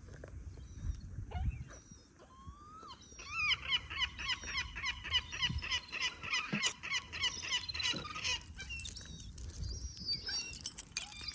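Birds calling outdoors: a rapid run of loud, ringing calls, several a second, starts about three seconds in and goes on for some five seconds. Near the end come a few fainter, thin, higher calls.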